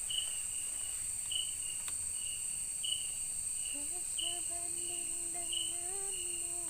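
Rainforest night insects: a steady high-pitched buzzing drone, with a short chirp repeating about every second and a half.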